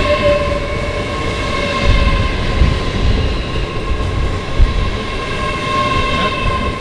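Great Western Railway Class 800 train running with a steady, multi-toned high whine. Wind buffets the microphone with low, gusty thumps.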